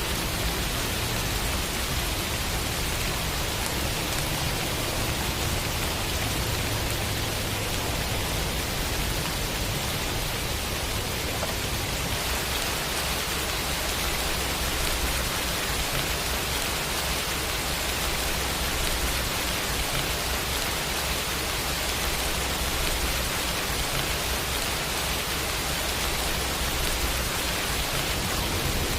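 Steady rain sound effect: an even hiss of rainfall with a low rumble underneath.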